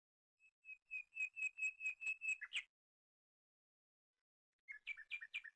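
A songbird singing a run of about ten quick, repeated whistled notes, around four or five a second, then a second shorter phrase of similar notes near the end.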